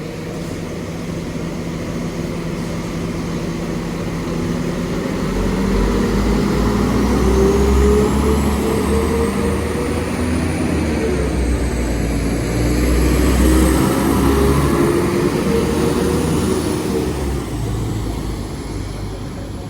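Two coupled class 195 diesel multiple units pulling away from the platform, their diesel engines running under load with engine notes that climb in pitch as the train gathers speed. It grows louder twice as the units pass, then fades away near the end.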